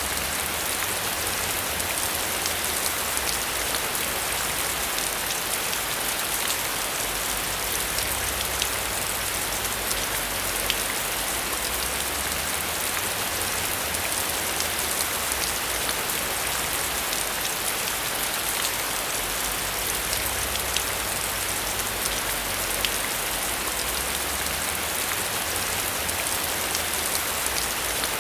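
Heavy rain falling steadily, a dense even hiss with scattered sharp drop ticks and a low rumble underneath.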